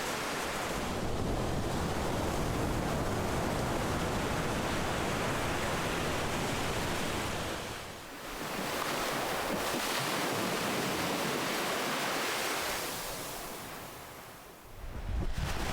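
Ocean waves breaking and washing on a shore in a continuous rushing surf, swelling and ebbing; the wash dies down briefly about eight seconds in and again near the end before the next wave surges in.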